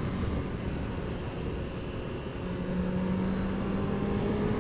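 Motorcycle engine running under way, with a low wind rumble. About two and a half seconds in the engine note comes up clearer and rises slightly in pitch as the bike picks up speed.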